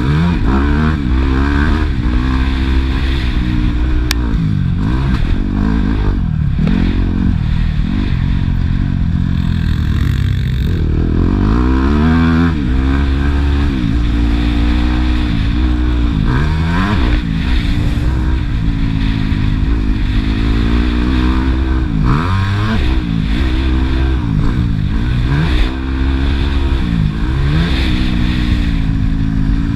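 Yamaha YZ250F four-stroke single-cylinder motocross bike engine revving hard, its pitch climbing and then dropping sharply every couple of seconds as the throttle is opened and shut through gear changes, over a steady low rumble.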